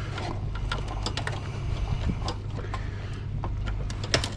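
Scattered light clicks and knocks of cables and connectors being handled and pulled off an old desktop computer, with a sharper knock near the end, over a steady low hum.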